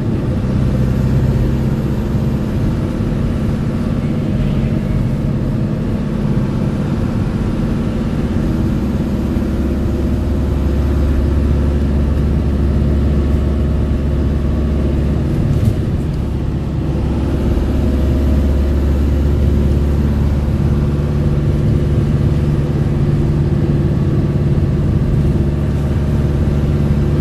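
A car driving, with a steady engine hum and road noise whose pitch shifts a few times. There is a single sharp click about halfway through.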